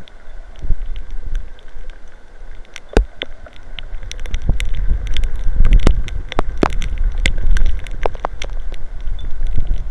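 Strong wind gusting over the outdoor camera microphone in a low, uneven rumble, with raindrops hitting the camera housing as scattered sharp ticks that grow denser and louder about halfway through.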